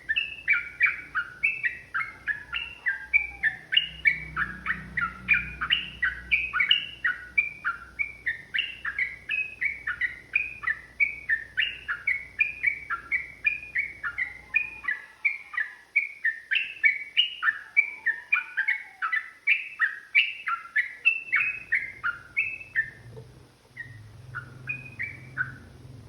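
Yellow-vented bulbul (trucukan) singing a long, unbroken run of quick chirpy notes, about three a second. Near the end the run breaks off into a few scattered notes.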